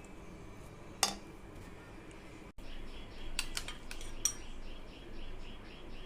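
Metal utensil clinking against cookware: one sharp clink about a second in, then a few quick clinks a little past the middle. From about halfway on, a rapid, regular high chirping runs in the background.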